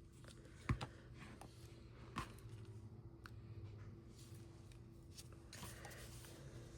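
Faint rustling of paper being handled and folded, with two sharp taps, the louder one just under a second in and a lighter one about a second and a half later.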